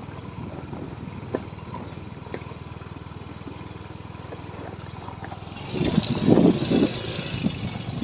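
Vehicle travelling over a rough, rocky road: a steady engine rumble with a few sharp knocks, then a louder burst of rumble and rushing noise about six seconds in.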